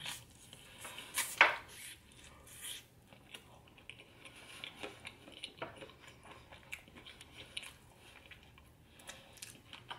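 Close-miked eating: chewing with small wet mouth clicks scattered irregularly, a few louder ones about a second and a half in.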